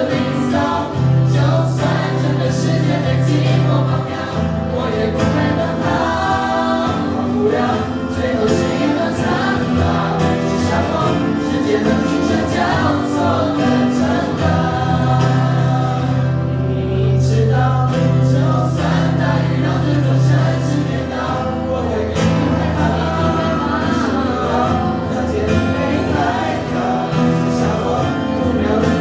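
A group singing a pop song together over strummed acoustic guitars.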